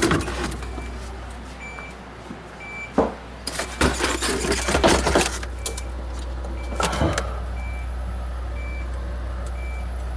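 Clicks, knocks and clatter of parts and tools being handled inside an opened refrigerator compartment, over a steady low hum from the refrigerator running in forced mode. A faint short high beep repeats over and over.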